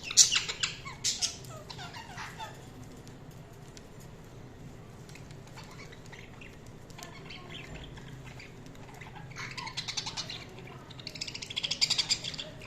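Budgerigars calling: a burst of loud, harsh squawks at the start, a quieter stretch with a few soft chirps, then quick scratchy chatter near the end.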